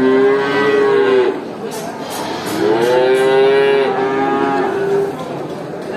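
Cow mooing: two long moos, the first lasting about a second, the second starting about two and a half seconds in and held for about two and a half seconds.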